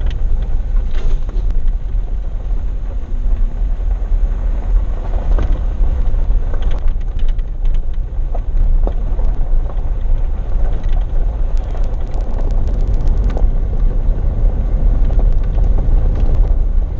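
Vehicle driving on a gravel road: a steady low rumble of engine and tyres, with scattered clicks and a quick run of rapid ticks about twelve seconds in.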